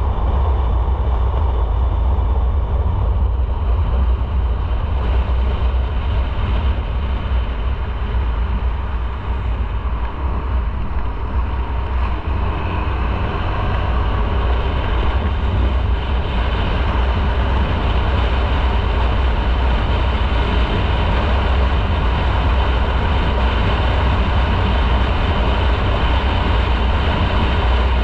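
A motorcycle underway: a steady deep wind rumble on the microphone over the bike's engine and road noise.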